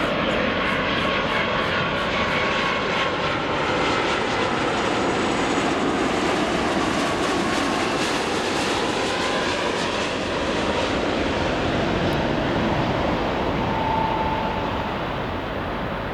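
Jet airliner engines roaring loudly as a plane passes, with faint whining tones that slide in pitch, easing off slightly near the end.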